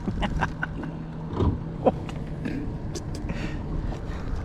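A steady low motor hum, with a few scattered short knocks and clicks.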